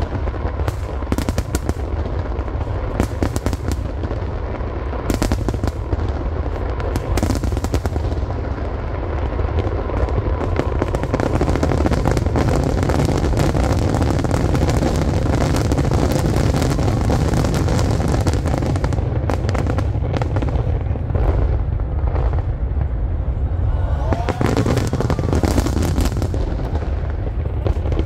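Fireworks display: a rapid, continuous barrage of shells bursting and crackling over deep, steady booming, densest through the middle.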